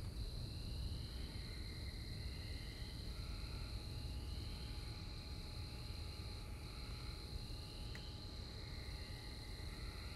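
Night chorus of insects and frogs: a steady high insect drone, with rising calls repeating every second or two, over a steady low rumble. No thunderclap is heard.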